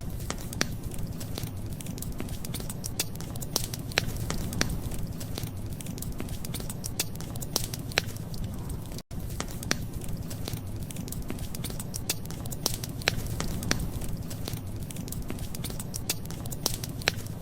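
Wood fire crackling, with irregular sharp pops and snaps over a steady low rumble; the sound cuts out for an instant about nine seconds in.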